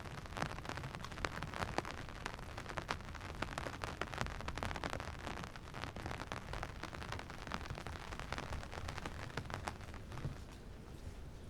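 Steady rain falling, with many close individual drop hits over a continuous hiss and a low rumble underneath; the drops thin out a little near the end.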